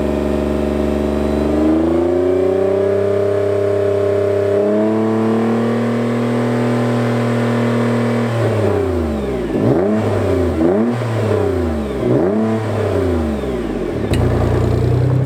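Nissan GT-R R35's twin-turbo 3.8-litre V6 exhaust before the straight pipe is fitted: held at steady raised revs with a couple of step changes, then blipped about four times in quick rises and falls, settling back near the end.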